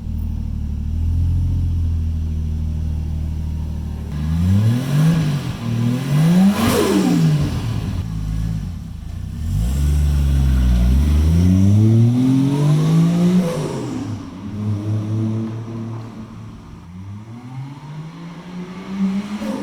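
Toyota 1JZ VVTi straight-six running through a freshly built 3.5-inch mandrel-bent stainless exhaust with a large muffler. It idles steadily, then the revs climb and fall several times, with one long steady climb in the middle and another near the end.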